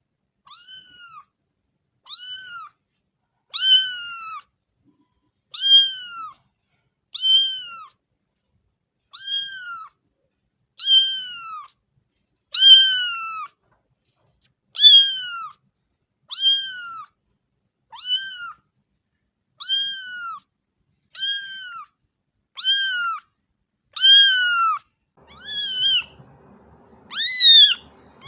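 A cat meowing over and over in short, high-pitched cries, about one every second or so, each call rising and then falling in pitch; a faint low rumble joins near the end under the loudest cry.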